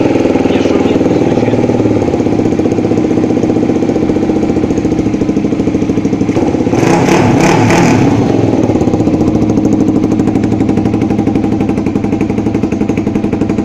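Kawasaki KLX250 single-cylinder four-stroke engine running steadily at idle. It briefly gets louder and rougher about seven seconds in. With a new camshaft fitted, it seemingly has no extra knocking from the cylinder head.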